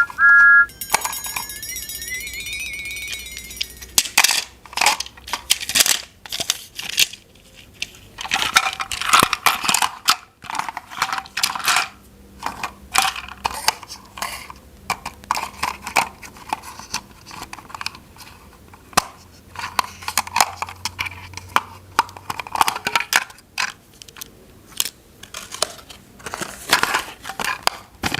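Hard plastic toy pieces being handled and fitted together, many irregular sharp clicks and clatters. It opens with a short electronic jingle whose pitch rises over the first few seconds.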